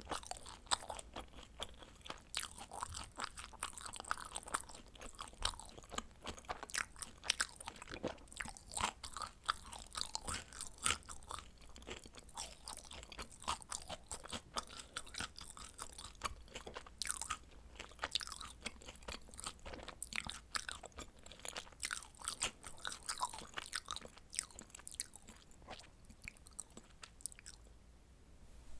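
Close-miked chewing of baked frozen pizza: a dense run of small crisp crunches and wet mouth clicks from the crust, thinning out near the end.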